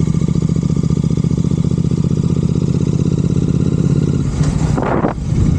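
Royal Enfield Continental GT 650's parallel-twin engine running steadily at cruising speed through Red Rooster aftermarket exhausts, an even, rapid pulse of firing beats. About five seconds in there is a brief rush of noise and a short dip in the engine sound.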